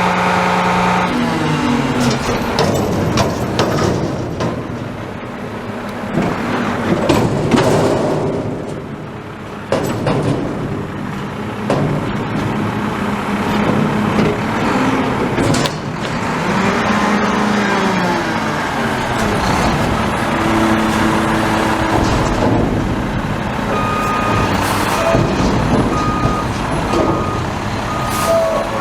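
Garbage truck at work: the diesel engine revs up and down under load amid knocks and clatter. From about two-thirds of the way in, the reversing alarm beeps about once a second as the truck backs up.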